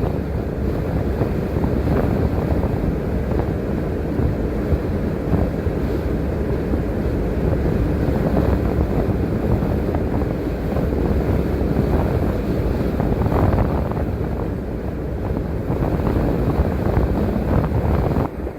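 Transit bus driving, heard from inside the cabin: steady engine and road noise, mostly a low rumble.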